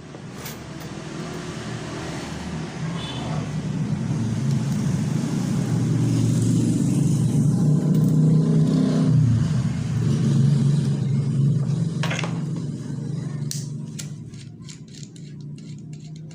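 A motor vehicle passing by: its engine rumble builds over several seconds, drops in pitch as it goes past, and fades away. A few sharp clicks and taps follow near the end.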